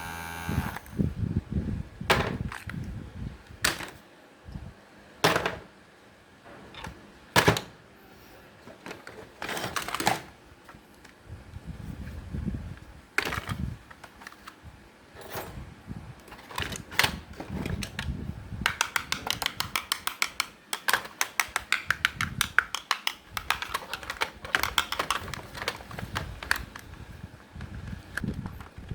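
Small plastic toys and gadgets being handled and pried apart: scattered sharp knocks and snaps, then a fast run of clicking for several seconds in the second half.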